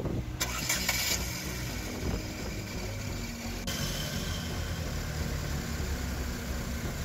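2012 Chevrolet Malibu's engine idling steadily, with a brief rush of noise just under a second in and a steadier hiss joining it a little past halfway.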